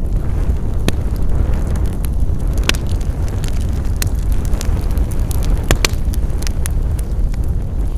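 Wood fire crackling: a steady low roar of flames with frequent sharp pops and snaps, a few of them louder.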